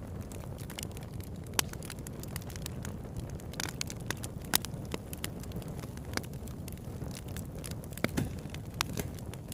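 Campfire burning: a steady low rumble of flames with irregular sharp crackles and pops of burning wood, the loudest about one and a half seconds in and again halfway through.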